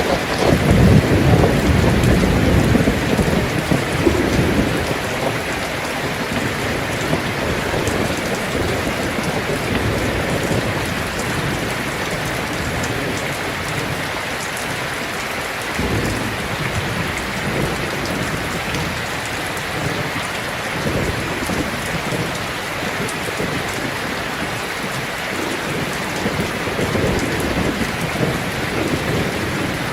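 Heavy rain drumming steadily on a tin roof, with a long roll of thunder rumbling in the first few seconds and fainter rumbles later.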